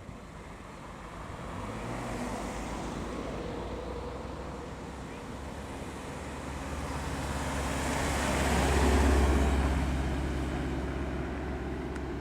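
A car driving past: engine note and tyre noise grow louder to a peak about nine seconds in, then fade. A quieter vehicle passes about two seconds in.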